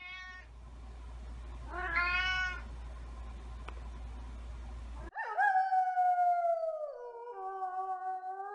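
Cat meowing: two short meows in the first couple of seconds over a low hum, then, after a cut, one long drawn-out meow of about three seconds that drops in pitch partway through.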